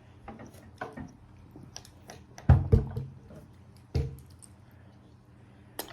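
Close-up chewing of spicy beef jerky: wet mouth clicks and smacks, with two heavier low knocks about two and a half and four seconds in.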